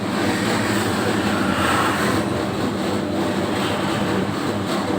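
Homemade 3 kg dough mixer running steadily, a constant mechanical hum with a whirring noise over it that swells briefly about two seconds in.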